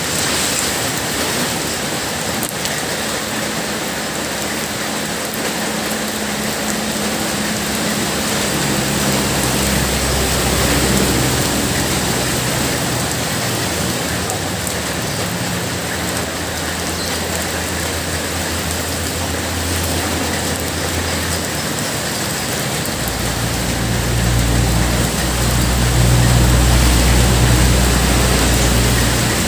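Heavy rain pouring steadily. A low steady hum joins about a third of the way in, fades, and comes back louder near the end.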